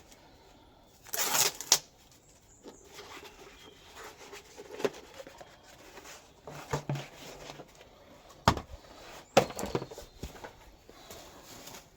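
Sheet of gasket paper being handled: a short, loud rustle about a second in, then quieter rustling and a few sharp knocks on the bench.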